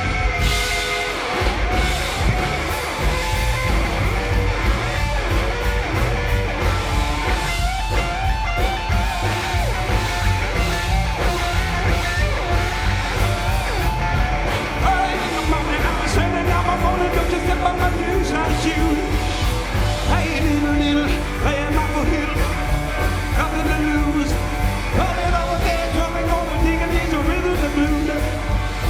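Live rock and roll band playing: guitar, bass and drums with a steady beat, and a singing voice.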